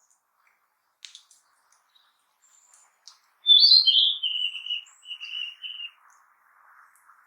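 Narcissus flycatcher singing one song phrase a little over three seconds in: a bright falling whistle followed by a run of lower repeated notes, about two and a half seconds long. A few faint short chips come before it, and a faint hiss rises near the end.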